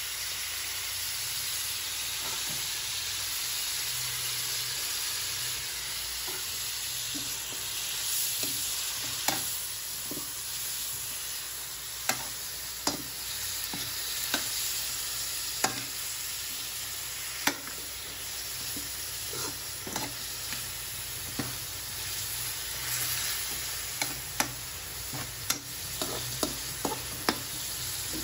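Chicken pieces frying in oil in a large wok, sizzling steadily, while a metal spatula stirs them. The spatula makes sharp clacks against the wok, starting about a third of the way in and coming closer together near the end.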